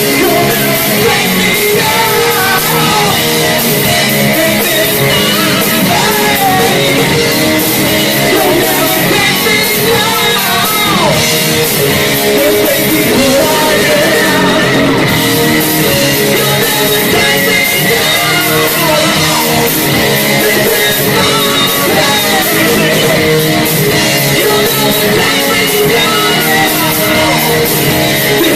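Live hard rock band playing loud and steady, with distorted electric guitars, bass, drums and a singer's voice.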